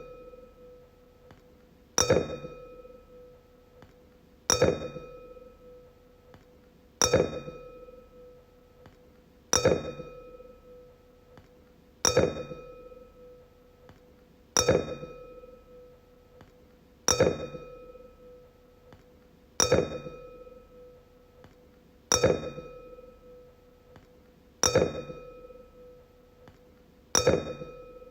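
Wine glass tapped and ringing, struck about every two and a half seconds, eleven times: each tap gives a sharp clink followed by a clear, single-pitched ring that fades within a second or two.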